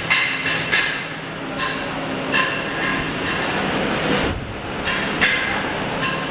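Steel struck repeatedly with a hammer, irregular blows that each leave a bright metallic ring, with a duller thump about four seconds in.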